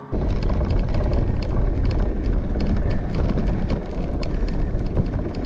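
Wind buffeting the microphone of a moving bicycle, a loud low rumble with many irregular light clicks over it.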